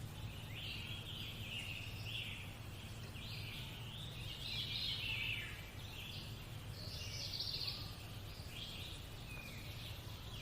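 Birds singing in an unbroken chorus of overlapping chirps and trills, over a steady low hum.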